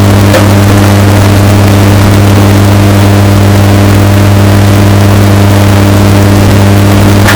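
Washing machine running, bass-boosted and heavily distorted: a loud, steady low hum with overtones that does not change.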